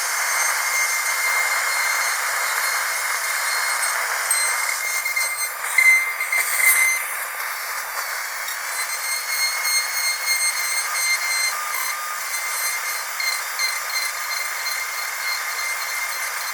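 Dentist's drill running with a steady, high-pitched whine over a hiss, with a brief louder, wavering stretch about six seconds in.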